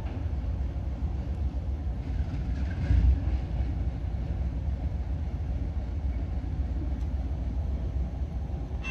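CPKC coal train giving a steady low rumble, with one brief louder thump about three seconds in.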